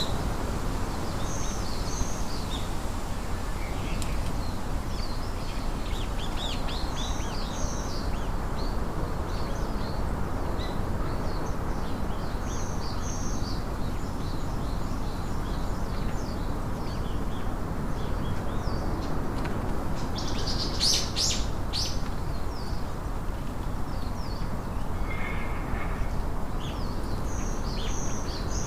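Small birds chirping in short, high calls throughout, with a louder run of chirps about two-thirds of the way through, over a steady low background noise.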